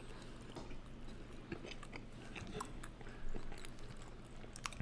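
Soft, close-miked chewing and mouth sounds of people eating chicken wings, with scattered small clicks.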